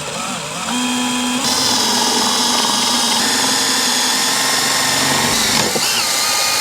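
Power drill running steadily while drilling a hole, getting louder about a second and a half in.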